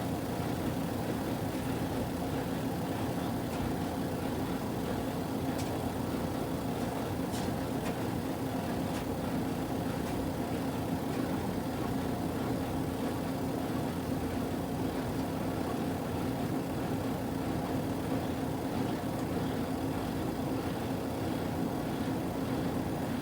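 Kuppet portable washing machine running through the last part of its cycle: a steady, unchanging motor hum with a few faint ticks.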